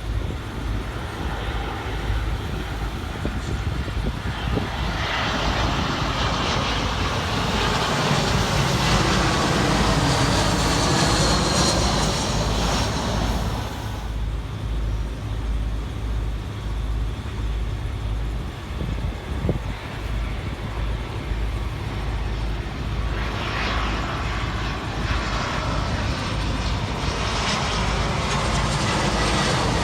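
Jet airliner on approach passing low overhead: its engine noise swells about five seconds in, with a sweeping, phasing hiss as it goes by, then fades. A second swell of jet noise builds near the end, with wind buffeting the microphone throughout.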